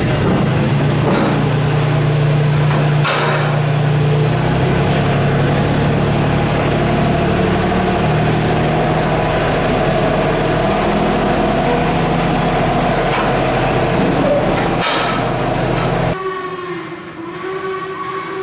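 Narrow-gauge railway train running: a steady low drone with a few sharp knocks. It stops abruptly near the end and gives way to a quieter, wavering higher tone.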